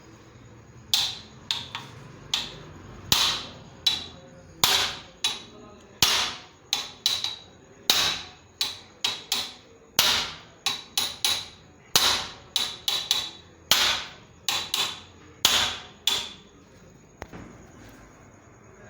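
Hammer blows on a motorcycle's twisted metal footrest to straighten it: about two dozen sharp strikes with a metallic ring, under two a second and unevenly spaced. They stop a few seconds before the end.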